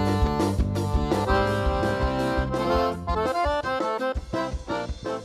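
Instrumental outro of a forró band, an accordion melody over bass and a steady beat. About three seconds in, the bass and beat drop away to separate chord hits and the music begins to fade.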